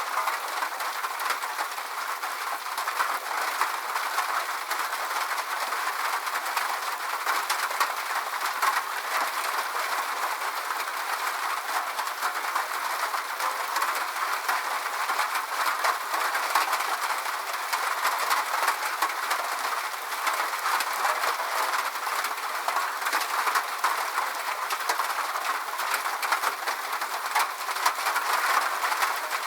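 Steady rain falling, a dense patter of fine drop clicks over an even hiss, with no deep rumble.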